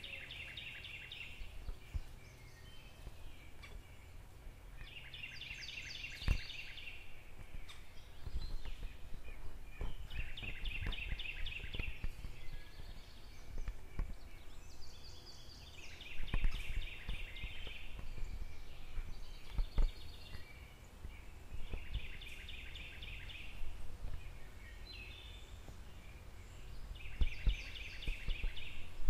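A songbird repeating a short, rapid trilled song phrase about every five to six seconds, six times in all, over a steady low rumble and a few soft knocks.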